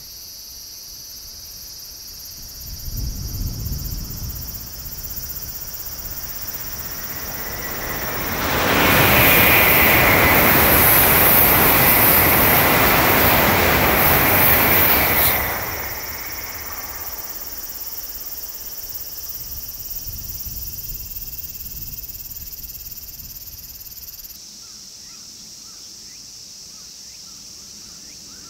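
Tokaido Shinkansen high-speed train passing at speed: a loud rushing wind-and-wheel noise that swells in, holds for about seven seconds, then falls away quickly.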